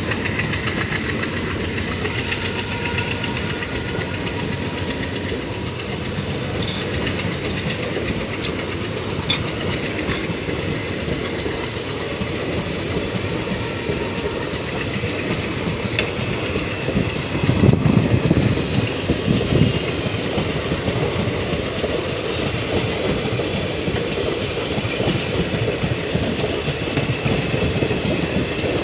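Passenger coaches of a departing express train rolling past at close range, their wheels clattering steadily over the rail joints, with a louder stretch of rumble about seventeen seconds in.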